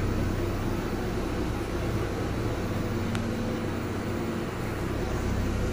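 Steady hum inside a slowly moving passenger train carriage, with one short click about three seconds in.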